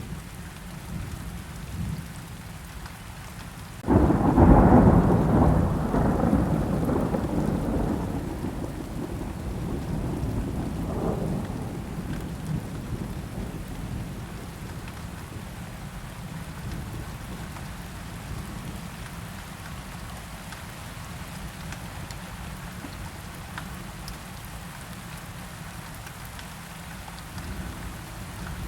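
Steady rain with a sudden thunderclap about four seconds in, rumbling and fading away over the next several seconds.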